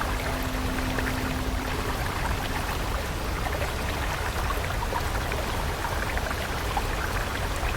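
A flowing stream of water, a steady rushing with a deep rumble and many small splashes and trickles. A soft held musical tone fades out about two seconds in.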